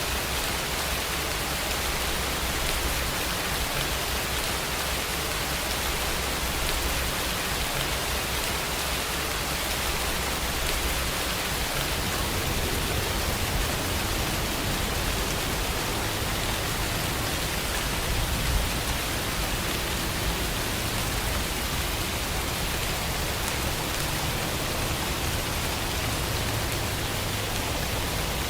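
Steady rain falling in a continuous, even hiss. About halfway through, a low rumble strengthens beneath it.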